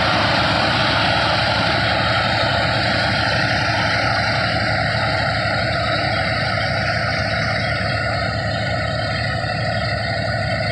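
Tractor engine driving a thresher, running steadily: a loud, continuous mechanical din with a fast, even engine pulse underneath.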